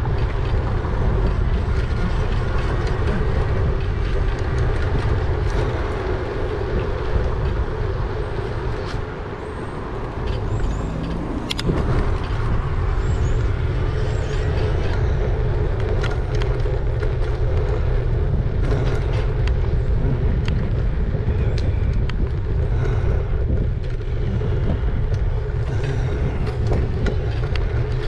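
Riding noise from an e-bike on the move: wind rushing over the microphone and tyre and road noise, with a steady hum and scattered small knocks from bumps. It eases off briefly about a third of the way in.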